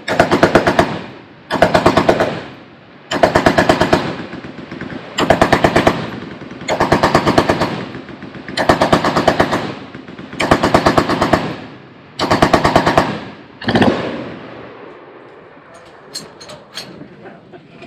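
Machine gun firing in bursts of about a second each, eight in a row at a steady pace, then one brief shot near the end, with the echo dying away.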